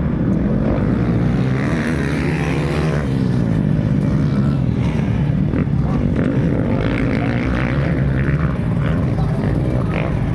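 Motocross dirt bike engines racing, revving hard with the pitch rising and falling as the bikes accelerate and shift.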